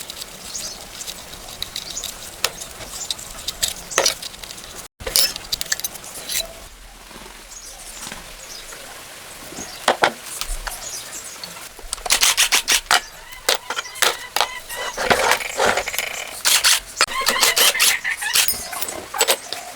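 Clicks, clinks and knocks of hand tools on metal engine parts, with dense runs of quick clicks in the second half.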